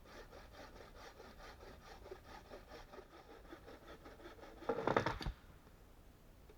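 Wood being worked with a hand-cutting tool in quick, even rasping strokes, about five a second, then a louder rough rasp about five seconds in that stops sharply.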